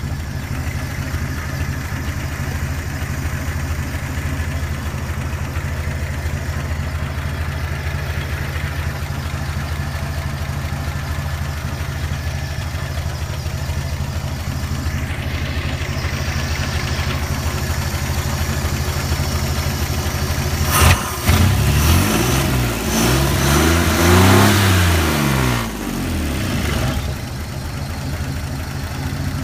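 1950 Chevrolet's inline-six engine idling steadily, then revved up several times about two-thirds of the way in, its pitch rising and falling with each rev, before settling back to idle.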